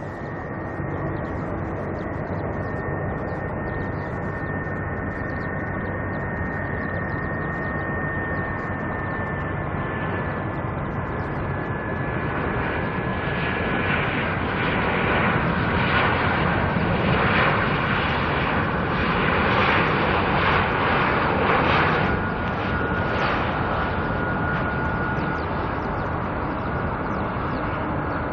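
Jet airliner engines running steadily with a high whine that slowly falls in pitch. The sound grows louder through the middle and eases off again toward the end.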